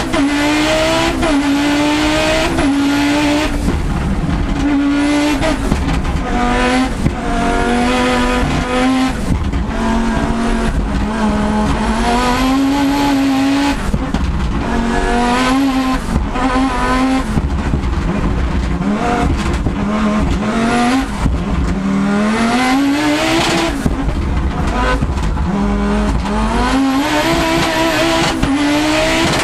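Audi Quattro S1's turbocharged 2.2-litre inline-five engine, heard from inside the cockpit, revved hard and repeatedly. Its pitch climbs, drops and climbs again many times, and a high whistle rises along with many of the climbs.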